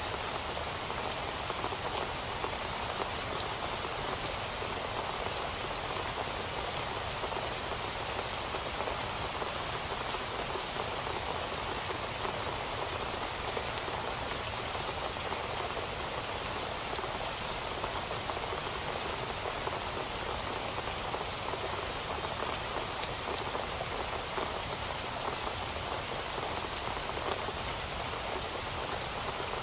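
Steady rainfall, an even hiss with many fine drop ticks.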